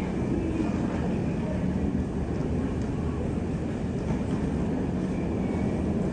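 Freight train of empty container flatcars rolling slowly along the rails beneath, a steady low rumble of wheels and running gear, with a few faint brief high squeals.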